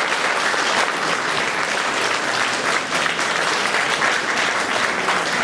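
Concert-hall audience applauding steadily, a dense continuous clapping.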